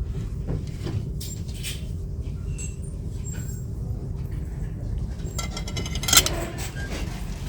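Steady low rumble of shop and handling noise with scattered light clinks and knocks, and a louder clatter about six seconds in.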